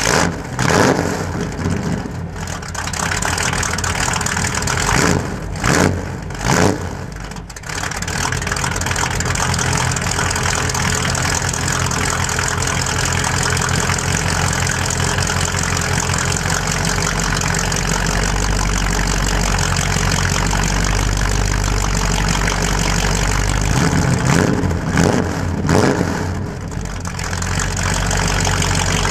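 1967 Plymouth Valiant's 318 small-block V8, with headers and an Edelbrock cam and carburettor, running just after a cold start. It is blipped a few times: once about a second in, twice around five to seven seconds in, and twice near the end. Between the blips it settles back to a steady idle.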